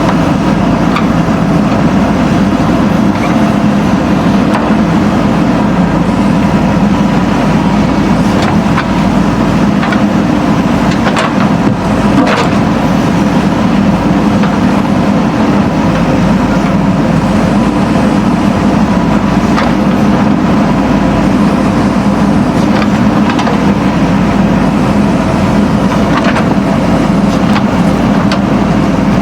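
Backhoe loader's diesel engine running steadily under work, with a couple of sharp knocks from the machine about halfway through.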